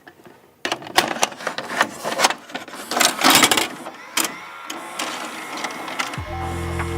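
Irregular clicking and clattering with rustling, a mechanical-sounding run of sharp clicks. About six seconds in, synth music with a deep bass line starts.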